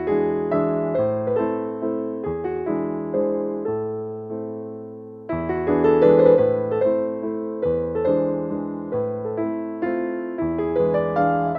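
Background piano music: soft, slow notes played in a steady rhythm, swelling a little louder about halfway through.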